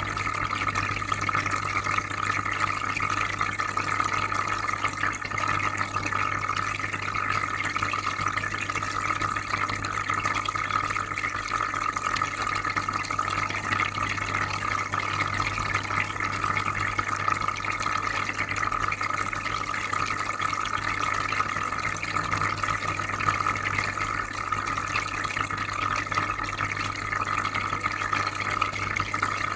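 Aquarium filter running with a steady low hum under continuous soft bubbling water.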